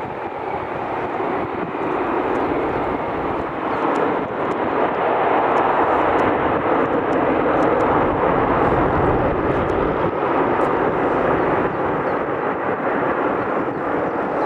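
Aircraft engines passing, a loud, even rushing noise that swells to its loudest around the middle and eases slightly toward the end.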